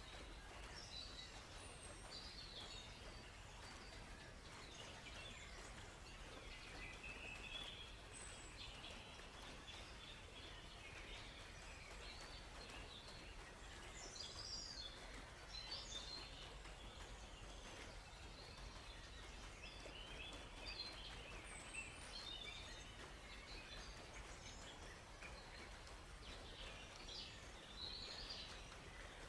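Several songbirds chirping and trilling, short calls scattered throughout, over a faint steady hiss of flowing water.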